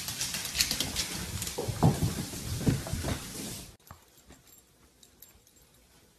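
A dog giving several short pitched cries amid clatter and rustling. It cuts off suddenly about four seconds in, leaving only faint room sound.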